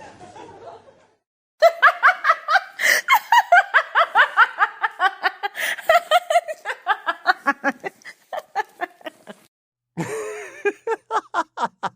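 A person laughing in a long run of quick, rhythmic pulses, about four a second, that taper off and die away; a second laugh starts near the end.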